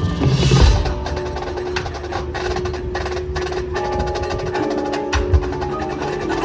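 Drum and bugle corps show music played live: held brass notes under a run of sharp, evenly spaced percussion clicks, with mallet percussion, and a couple of low drum hits near the end.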